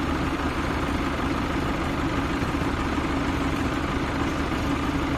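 Heavy diesel engine running steadily at idle, a constant low rumble with no change in speed.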